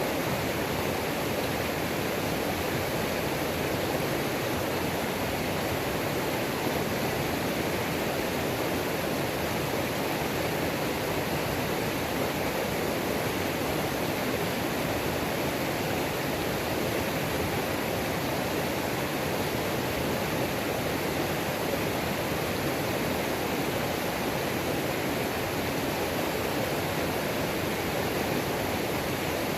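Waterfall on a mountain creek: water pouring over rocks in a steady, unbroken rush.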